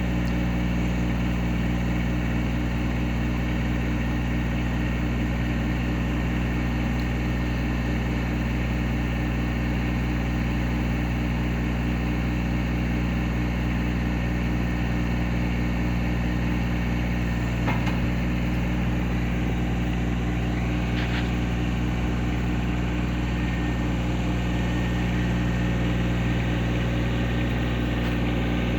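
Tractor engine running steadily at idle, its low, even hum holding the same pitch throughout.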